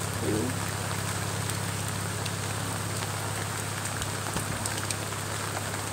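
Steady rain falling: an even hiss with scattered sharp drop taps.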